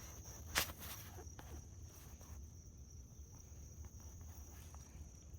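Faint open-air background with a steady high thin hum and a low rumble. There is a single sharp click about half a second in, followed by a few fainter ticks.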